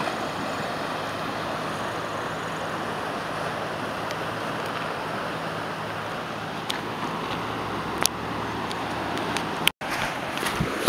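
Steady rushing of surf and wind at the shore, with a few sharp clicks in the second half. The sound drops out completely for a moment near the end.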